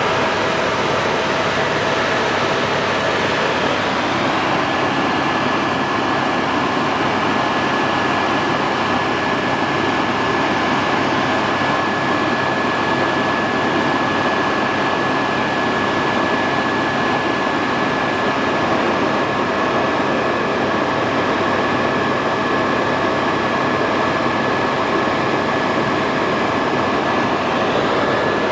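Helicopter in flight, heard from aboard: a loud, steady rumble of rotor and engine noise with a thin, steady high whine over it.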